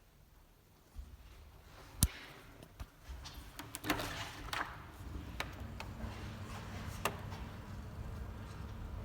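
A series of sharp knocks and clicks: one loud knock about two seconds in, a quick cluster around the middle and single clicks later, over a low steady rumble that sets in about three seconds in.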